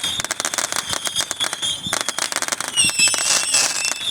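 Fireworks going off in a dense barrage of rapid crackling pops, with a wavering high whistle running through it. About three seconds in, several shrill whistles sound together.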